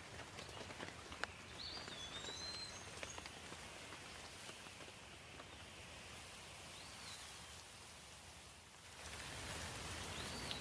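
Steady rain pattering, with scattered drips and a few short bird chirps at about two, seven and ten seconds in; it gets louder about nine seconds in.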